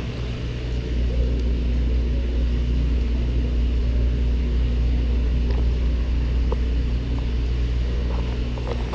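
Steady low mechanical hum, with a few faint ticks near the end; it grows a little louder about a second in.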